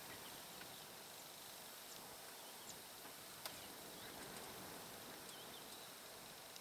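Faint outdoor ambience: a steady hiss with scattered distant bird chirps, and one sharp click about halfway through.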